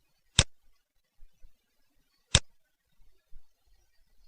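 Two sharp computer mouse clicks about two seconds apart, selecting parts one at a time in CAD software.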